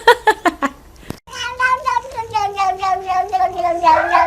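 A cat giving one long, drawn-out meow that wavers and slowly falls in pitch, starting about a second in. Before it comes a quick run of short, sharp sounds.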